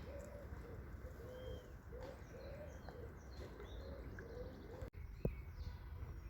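Pigeons cooing in a run of repeated low, rounded calls, with small birds chirping higher up. The cooing stops about five seconds in.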